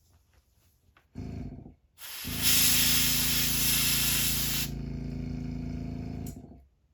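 Airbrush spraying paint in two bursts: a short one about a second in, then a loud hiss of about two and a half seconds. Under them runs the steady hum of the small air compressor, which keeps going briefly after the spraying ends and stops near the end.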